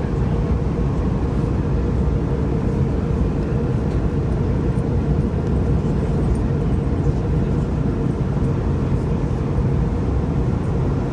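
Steady cabin noise of an Airbus A321neoLR in flight: a constant low rush of airflow and engine drone, with a steady hum running through it.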